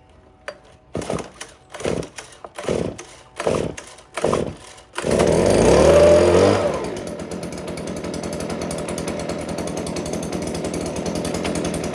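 Stihl BG86C two-stroke leaf blower being cold-started by its pull cord: about five quick pulls, then the engine catches about five seconds in, runs fast briefly, and settles to a steady idle.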